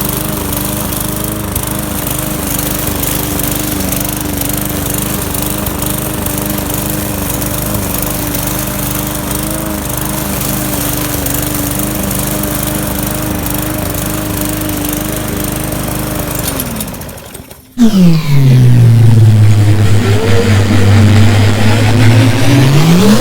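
Walk-behind lawn mower with a Briggs & Stratton 450-series engine running steadily at an even pitch, then cutting out about 17 seconds in. Right after, a much louder tone falls in pitch, holds low for a few seconds, then rises again like a siren.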